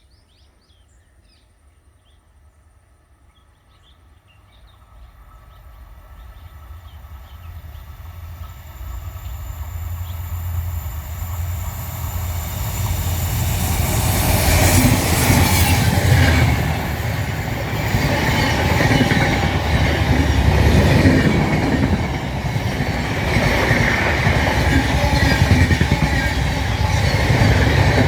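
A passenger express train approaching, growing steadily louder over about ten seconds, then running past close by with a loud, continuous rumble of wheels on the rails. A few faint bird chirps are heard at the start.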